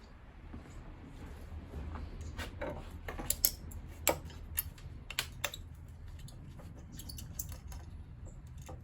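Sharp, irregular metallic clicks and clinks of hand tools and small metal boiler parts being handled, over a low steady hum.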